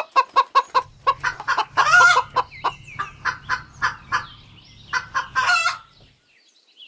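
Hen clucking in a quick, even run of short clucks, about five a second, broken by longer, louder squawks about two seconds in and again near the end.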